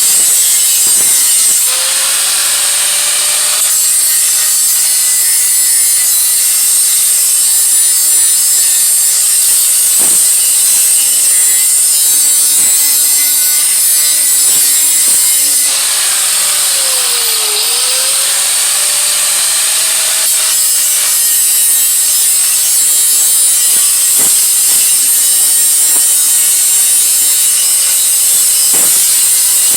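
Electric grinder working metal on an exhaust head pipe part, a loud continuous hiss. The motor's tone sags and recovers about seventeen seconds in as the tool is leaned into the work.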